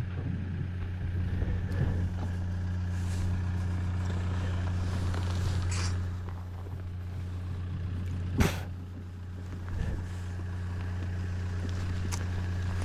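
Vehicle engine idling with a steady low hum, with a single sharp knock about eight seconds in.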